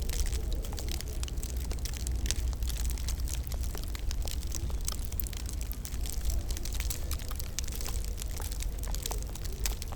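Wood fire crackling and popping in a fireplace, with many irregular sharp snaps over a steady low rumble.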